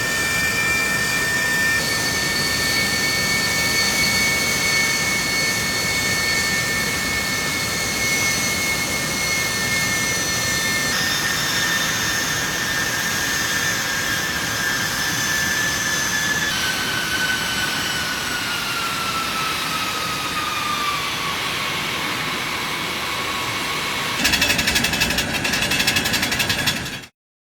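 Airbus A319 turbofan engine running at high power during a vibration run-up after a fan blade replacement: a steady roar with high whining tones that jump to new pitches as the power setting is changed, then a whine that glides down as the engine is throttled back. About three seconds before the end a louder, rougher rattling noise takes over, and the sound cuts off suddenly.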